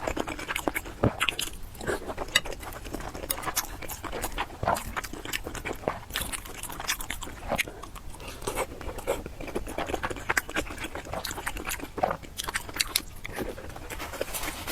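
Close-miked eating sounds: biting and chewing food, with many short, irregular crunchy clicks and smacks.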